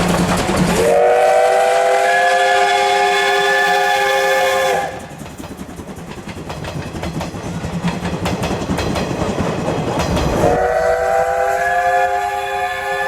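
Steam whistle of the C12 66 steam locomotive sounding two long blasts of about four seconds each, several notes at once, each rising slightly in pitch as it opens. Between the blasts the passing train runs with a noisy rumble and clatter.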